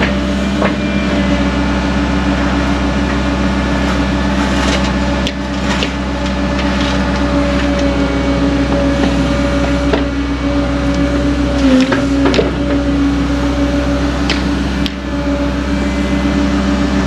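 Cat excavator's diesel engine and hydraulics running steadily while digging, with scattered knocks and scrapes from the bucket working the soil; the engine's tone sags briefly about twelve seconds in.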